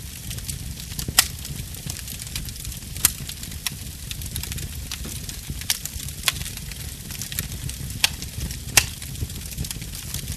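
Wood fire burning: a steady low rumble and hiss from the flames, with a handful of sharp crackling pops from the burning wood, the loudest about a second in and near the end.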